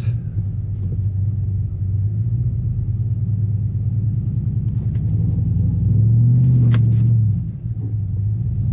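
Chevrolet Silverado pickup's engine pulling under load while the truck is stuck in deep snow, trying to drive free. The engine note swells for about a second near the end, then drops back, with a single sharp click.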